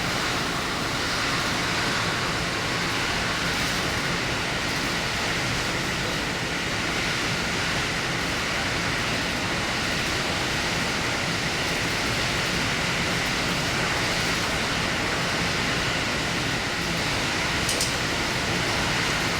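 Diesel limited-express train running steadily at speed: an even rumble and rush of wheels on rail, heard from inside the car. One short tick sounds near the end.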